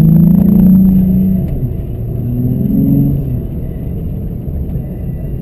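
Volkswagen MK3 Jetta's 2.8-litre VR6 engine revving: loud in the first second and a half, dropping away, then revving up again about three seconds in before settling to a lower steady drone.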